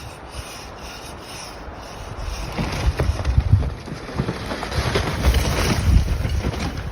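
Wind buffeting the microphone, a rough rushing noise with irregular gusts that grow louder about two and a half seconds in.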